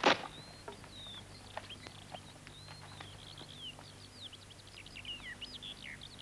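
A knock right at the start, then small birds chirping and twittering in quick short notes that slide up and down, over a low steady hum.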